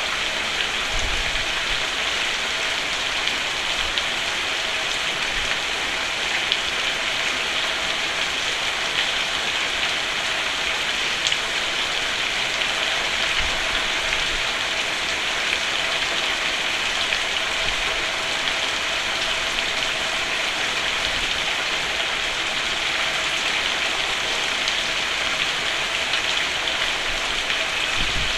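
Steady rain falling on a roof: an even hiss with scattered drop ticks that keeps the same level throughout.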